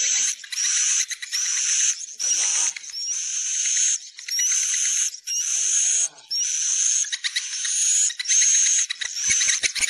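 Edible-nest swiftlet roosting lure call: buzzy, twittering chirps in repeated phrases about a second long, each with a rising whistle. It is the recorded call played to draw swiftlets into a nesting house to roost.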